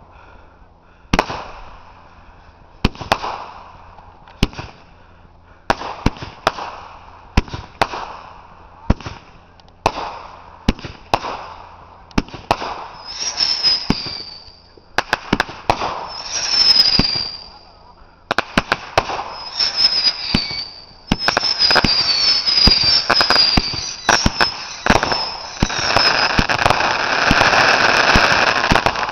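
A multi-shot consumer fireworks cake firing. Sharp bangs come about once a second, then whistling shots with falling whistles join in midway. It ends in a dense, rapid crackling barrage.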